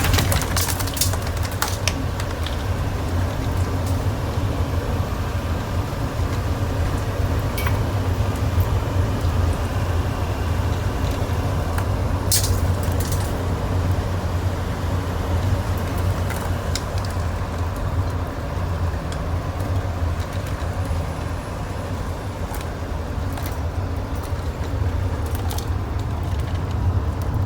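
Converted bus driving at speed: a steady low engine and road drone with occasional rattles and knocks. The riders put the shaking down to the ladder vibrating.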